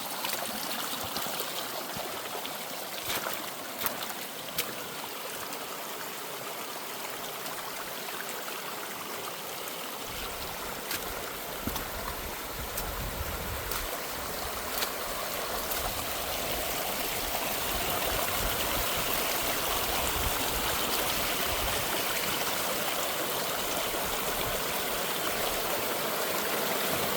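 Water rushing and splashing down a rocky trail below a dam outflow, a cascading mountain stream; the rush grows fuller and a little louder about halfway through.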